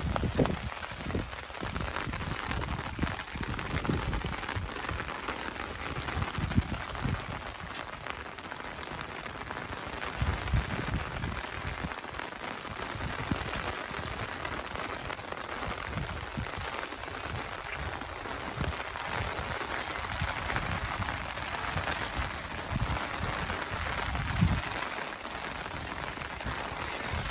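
Steady heavy rain falling, a dense even hiss, with irregular low rumbles underneath.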